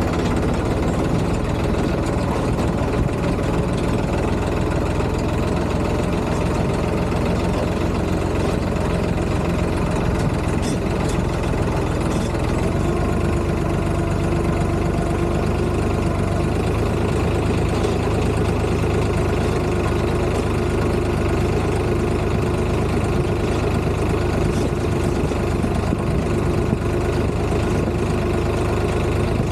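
Tractor's diesel engine running steadily at a constant speed, with a low knocking beat.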